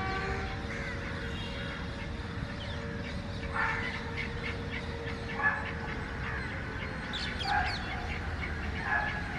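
Birds calling four times in short bursts over a steady low rumble, with a faint steady tone that fades out about six seconds in.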